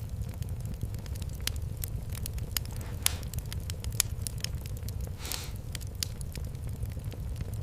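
Fire in a fireplace crackling: many sharp pops and snaps over a steady low rumble, with two brief hisses, about three and five seconds in.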